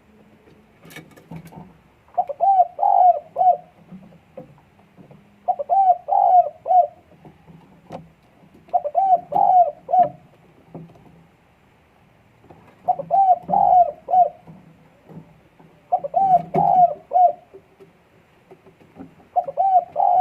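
Spotted dove (dekukur) cooing in breeding condition: a short phrase of several low coos, repeated about every three and a half seconds, six times.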